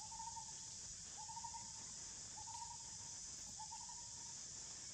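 A bird's hooting note repeated four times, each about half a second long and a little over a second apart, over a steady high drone of insects.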